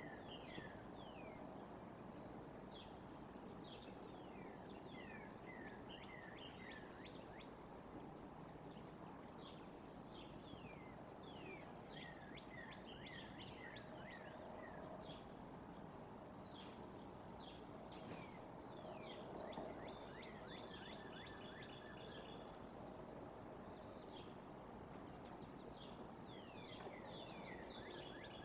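Faint bird calls: many short, quickly falling chirps, some in quick runs, with a few brief steady whistles late on, over a steady outdoor background hiss.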